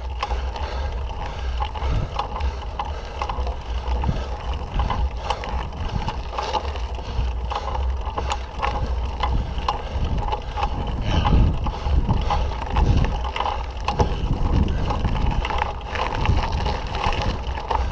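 Wind buffeting the microphone over a steady low rumble, with the rattles and clicks of a mountain bike riding a rough dirt trail.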